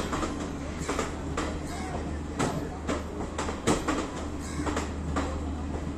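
Garib Rath AC sleeper coaches rolling past, a steady low rumble with irregular sharp knocks from the wheels passing over rail joints.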